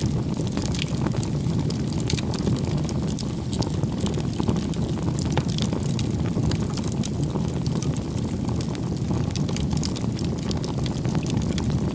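Wood bonfire burning: a steady low rumble of flames with frequent sharp crackles and pops from the burning wood.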